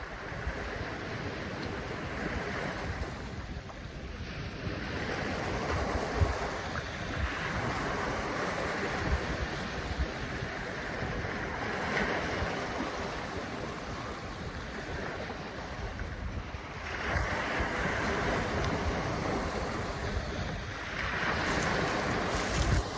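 Waves washing in and out in repeated swells, with wind buffeting the microphone in low rumbling gusts.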